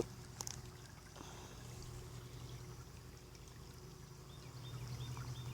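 Faint trickle of shallow creek water, with a steady low hum underneath and a few small clicks.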